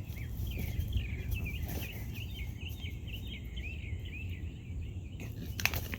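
Birds chirping rapidly over a steady low rumble of outdoor noise, with a single sharp click near the end.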